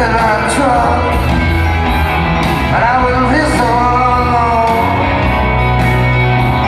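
Live rock band music: a singing voice over a steady bass and drum groove.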